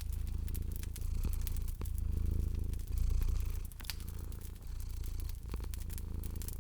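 A cat purring in a low, steady rumble that swells and eases about once a second with each breath, over a wood fire crackling with scattered sharp pops.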